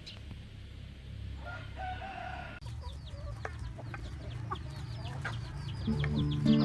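Chickens calling: a short clucking call, then, after an abrupt change, a run of quick high-pitched falling calls. Background music comes in near the end.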